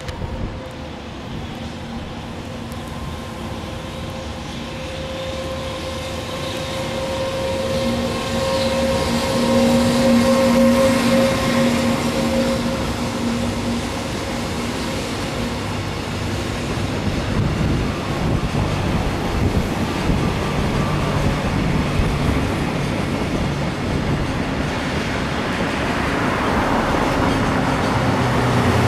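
A JR Freight EF210 electric locomotive hauling a long container freight train past at speed. A steady hum from the locomotive is loudest as it goes by, about ten seconds in, followed by the continuous rumble of the container wagons' wheels on the rails.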